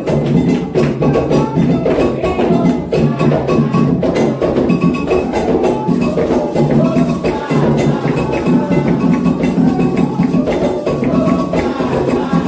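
Candomblé ritual drumming for Ogum: atabaque hand drums playing a steady, dense rhythm with a struck bell (agogô) ringing on top, without pause.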